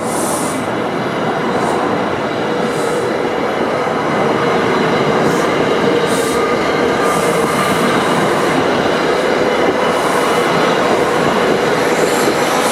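A passenger train running along the rails close by: steady loud wheel and track noise, with several brief high-pitched wheel squeals.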